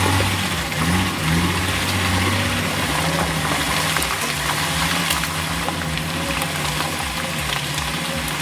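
A heavy vehicle's engine running. Its pitch rises briefly about a second in, then holds steady.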